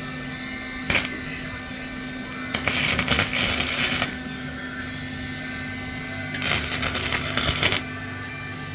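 Two bursts of harsh, rasping noise from work on exhaust pipe parts, each about a second and a half long, with a sharp click about a second in.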